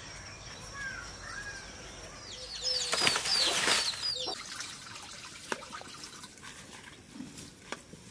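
Birds chirping, with a loud burst of rustling and many short chirps about three seconds in, then a few light clicks.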